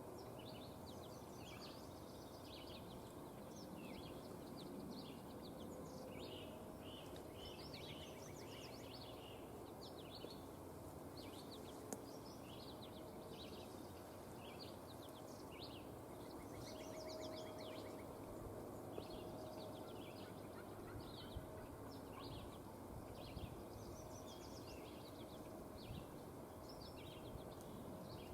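Songbirds singing continuously, many short chirping notes, over a quiet, steady outdoor background hiss.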